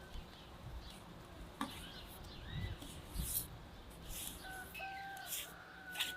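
Faint outdoor background with a few short chirps, light clicks and soft knocks.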